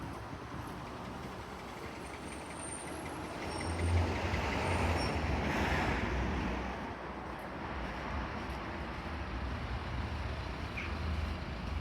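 Street traffic with a motor vehicle driving past, its noise swelling to a peak about four to six seconds in and then easing off over a steady low rumble.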